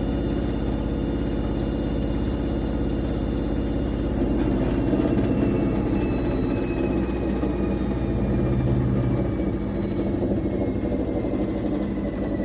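Fisher & Paykel MW059NZ washing machine running: a steady rumble and hum, with a high whine that slowly falls in pitch from about four seconds in, as the drum's motor slows.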